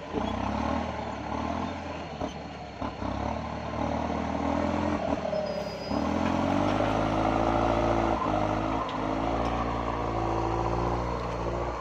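Kubota MU5702 tractor's diesel engine running steadily while it manoeuvres in a rice field, with a few knocks and clatters. About six seconds in, the engine note rises slightly and grows a little louder.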